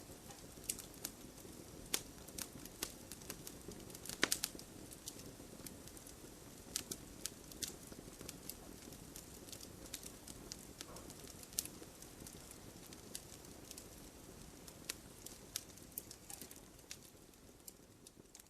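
Fire burning in a fireplace: a low steady rush of flames with irregular sharp crackles and pops, including a quick cluster of pops about four seconds in. It grows a little quieter near the end.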